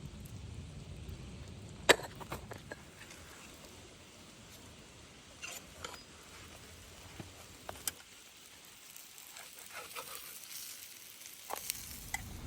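Food sizzling, with scattered small clicks and crackles and one sharp knock about two seconds in.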